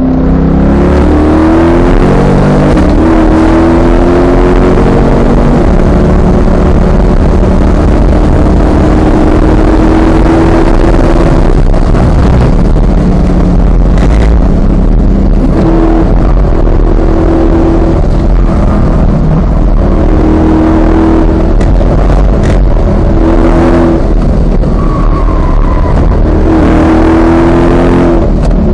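Chevrolet C8 Corvette Stingray Z51's 6.2-litre LT2 V8 under hard acceleration on track, heard from inside the cabin: the engine note rises through the gears with quick dual-clutch upshifts, then the driver lifts and the gearbox downshifts for a corner.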